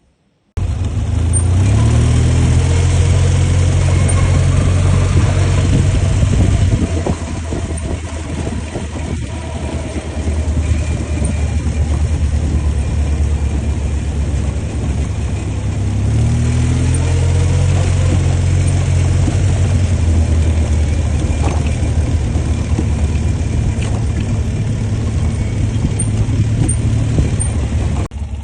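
ATV engine running, pitch rising twice as it speeds up, about a second in and again about halfway, otherwise a steady drone.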